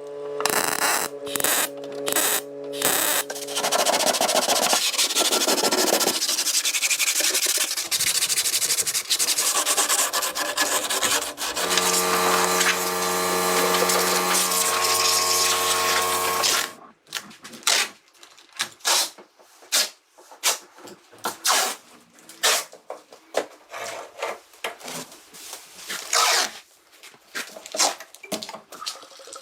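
Workshop tool sounds. A stretch of dense sanding and rubbing noise, then a power tool's motor running steadily for a few seconds. It stops about halfway through, and irregular short scrapes and taps follow.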